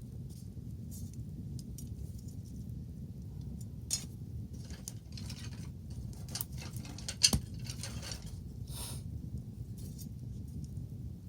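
Wood bonfire crackling: irregular snaps and pops over a steady low rumble, with one sharp, loud pop a little past the middle.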